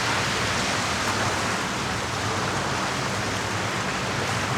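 Water making a steady, even rush with no distinct splashes or surges.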